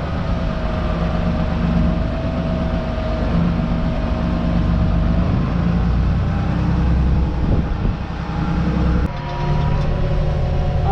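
Farm tractor's diesel engine running steadily while towing a planter. The engine tone shifts abruptly about nine seconds in.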